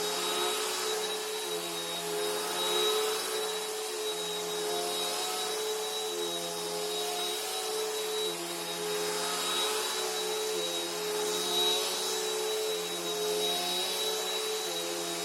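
Bissell PowerLifter Bagged Pet upright vacuum cleaner running steadily. Its motor hum wavers a little in pitch as it is worked, with a thin high whine on top.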